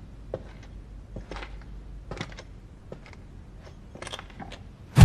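Light, irregular crunching clicks, about three a second, over a low steady hum. At the very end a sudden burst of loud automatic gunfire breaks in.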